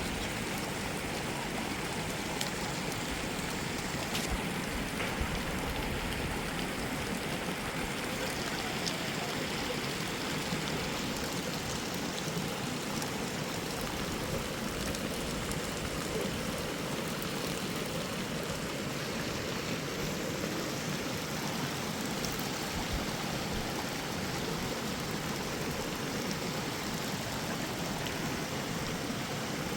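Heavy rain falling steadily, a constant rushing hiss of water with a few faint drop ticks.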